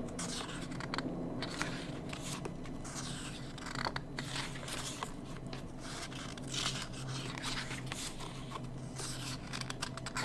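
Paper and card being handled: irregular rustling and scraping with many sharp clicks and taps as pages and photos of a K-pop album are turned and moved.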